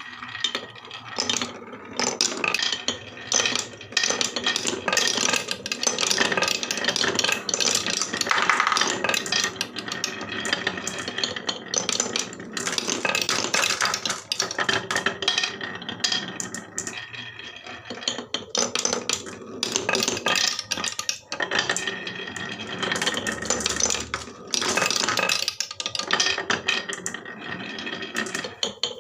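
Many marbles rolling and clattering down a HABA marble run track, a dense, continuous rattle of small clicks and knocks as they run along the slopes and strike the track pieces and each other.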